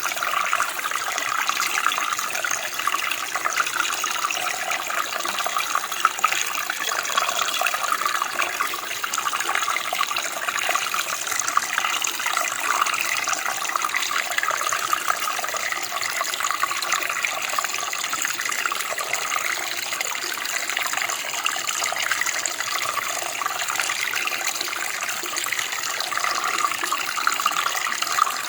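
Running water of a stream or creek flowing steadily, a continuous even splashing rush with no breaks.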